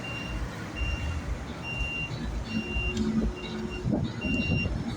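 A truck's reversing alarm beeping, one high tone about once a second, over the low rumble of heavy truck engines.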